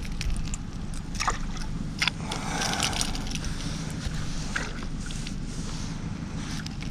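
Boat motor running steadily with a low hum, with a few sharp clicks and knocks over it.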